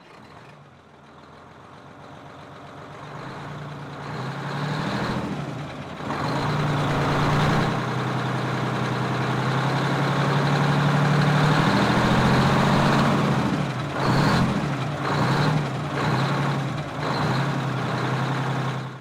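Heavy truck engine running and growing louder over several seconds, then rising and falling in a few short surges near the end.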